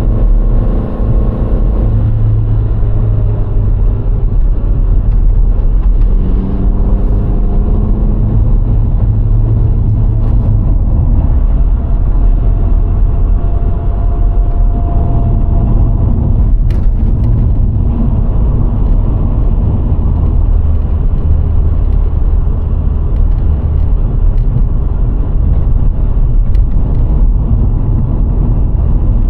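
VW Golf IV 1.6's four-cylinder petrol engine and tyres on the road while driving: a loud, steady low rumble, with engine tones shifting in pitch in the first several seconds.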